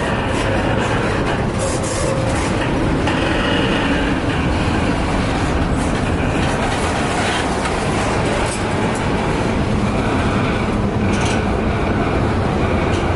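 Double-stack container well cars of a freight train rolling past close by: a steady, loud rumble of steel wheels on rail, with occasional sharp clicks.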